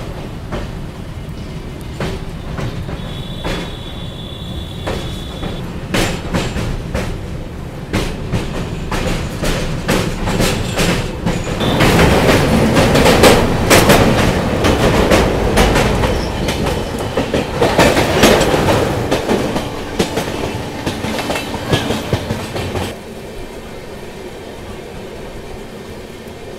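Passenger train wheels clicking rhythmically over rail joints, heard from an open coach doorway, with a brief high squeal early on. About twelve seconds in, a goods train on the next track passes close alongside and the sound swells into a loud rush for about ten seconds, then drops back to the quieter clicking.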